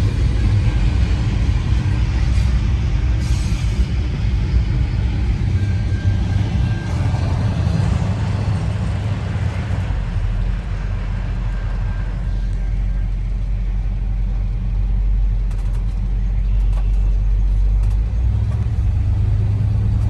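Intermodal freight cars rolling past, a steady low rumble of steel wheels on the rails.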